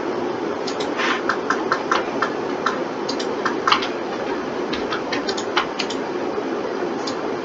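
Irregular clicks of a computer mouse and keyboard, about a dozen, clustered between one and six seconds in, over a steady background hum.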